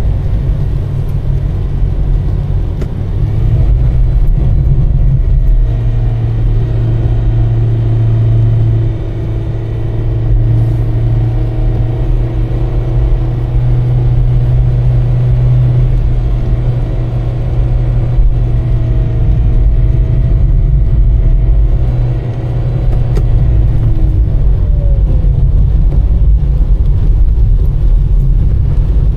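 Car driving: a steady low engine and road rumble. The engine note shifts slightly with speed and drops a little near the end.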